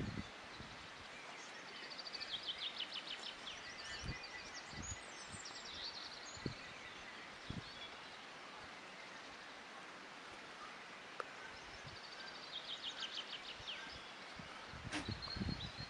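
Outdoor ambience: a steady background hiss with a small bird's quick trilling song twice, first about a second and a half in and again near the end. A few soft knocks and rustles sound close by.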